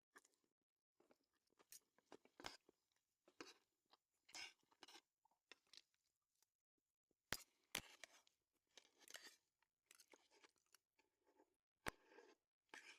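Faint, scattered chewing and crunching of people eating a meal, with a few sharp clicks, the loudest about seven and a half seconds in and near twelve seconds.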